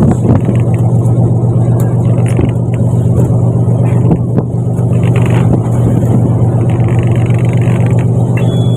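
Fishing boat's engine running with a steady low drone, with a few knocks and clatters over it.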